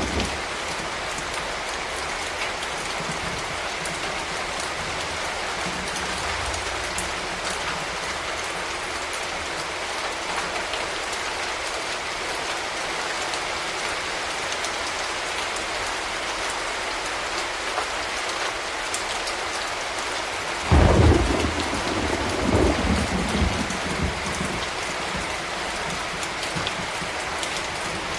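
Steady rain falling. About three-quarters of the way through, a sudden, loud, deep rumble breaks in and fades over about three seconds.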